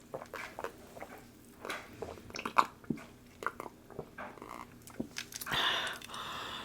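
Close-miked eating sounds: a person biting and chewing, with scattered small clicks and crackles, then a steadier rushing noise for about a second near the end.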